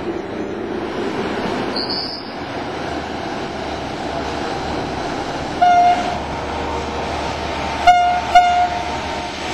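Stadler GTW diesel multiple unit running through the station with a steady rumble, a brief high squeal about two seconds in. The train horn sounds one short toot about six seconds in, then two quick toots near the end.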